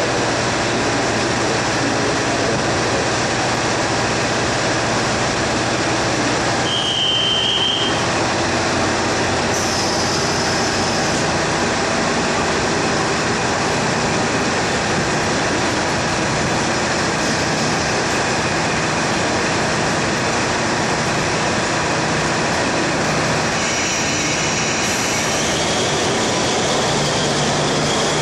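KiHa 183 series diesel railcars running into a station, a steady drone of diesel engines and wheels on rail. A few brief high squeals sound over it, about a quarter of the way in and again near the end.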